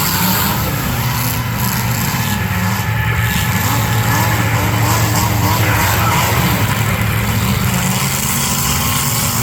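Demolition derby cars' engines running together in a steady, loud din.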